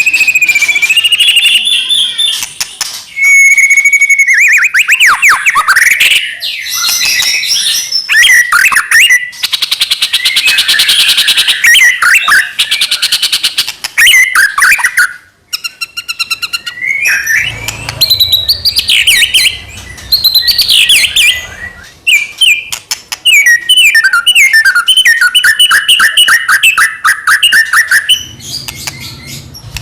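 White-rumped shama singing loudly in a fast, varied stream of whistles, sweeping notes and rapid trills, broken by short pauses between phrases. A low rumble runs under the song twice, in the second half.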